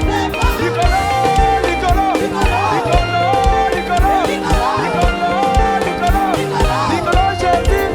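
Live worship band music: a guitar melody line over bass and a steady drum beat, with no words sung.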